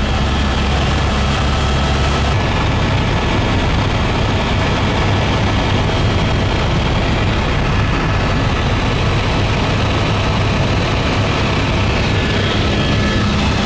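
Helicopter in flight heard from inside the cabin: a loud, steady turbine and rotor noise with a constant low hum.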